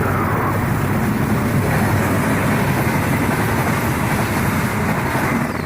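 CC206 diesel-electric locomotive and its train running, a steady heavy rumble.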